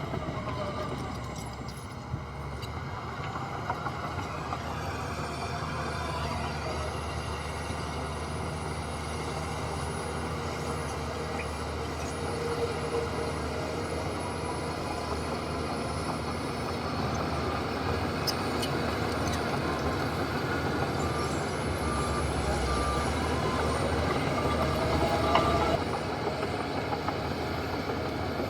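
Heavy diesel earthmoving machinery running steadily under work, a bulldozer and dump trucks moving soil.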